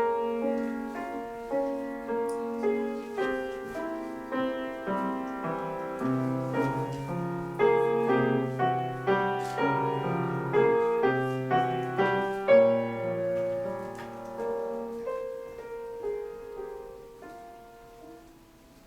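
Solo piano playing: a melody over sustained chords and low bass notes, struck about once or twice a second, then dying away near the end.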